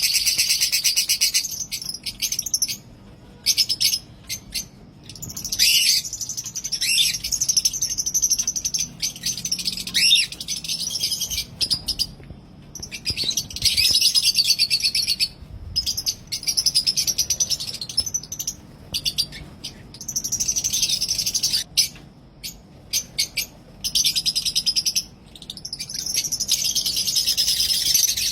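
Lovebirds chattering in shrill, rapid chirps that come in bouts of a few seconds, stopping and starting again throughout.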